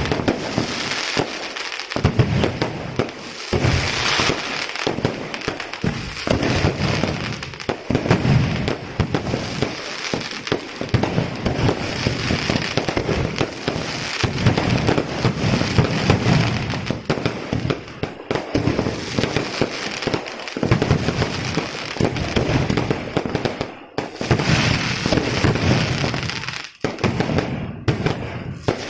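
Fireworks display: a continuous barrage of bangs and crackling from aerial shells bursting overhead, with brief lulls near the end.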